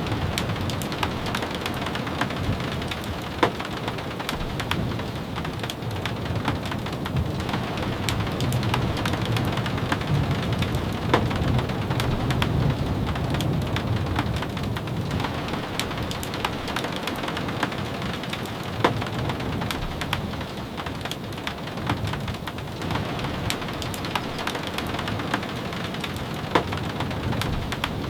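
Steady rain falling, with scattered sharp drop ticks. A low rumble swells through the middle.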